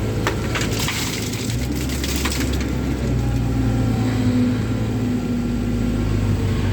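Komatsu 130 excavator's diesel engine running steadily, with rock and soil crunching and rattling for the first two seconds or so as the bucket works a load.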